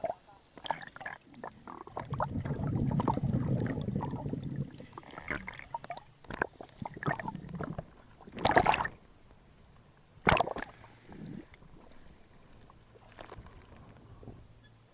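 Water sloshing and splashing, with scattered knocks and two louder splashes about eight and a half and ten seconds in.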